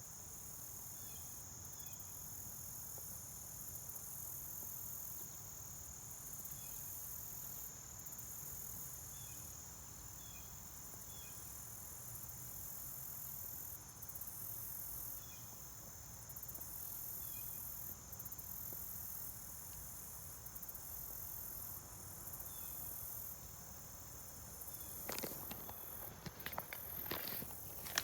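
Insects trilling in a steady, high, continuous chorus, with faint short chirps repeating every couple of seconds. Near the end, a few irregular knocks and scuffs come in.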